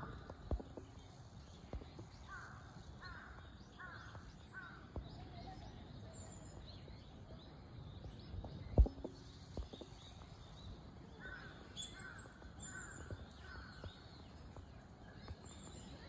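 Birds calling outdoors: two bouts of short, repeated falling calls, with thin high chirps above them. A single sharp knock about halfway through is the loudest sound.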